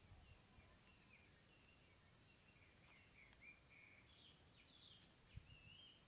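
Near silence, with faint bird chirps and twittering calls repeating throughout over a low background hum, and one soft thump about five seconds in.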